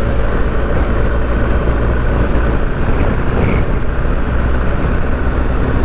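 BMW R1250GS boxer-twin engine running steadily at cruising speed, with wind and road noise over it.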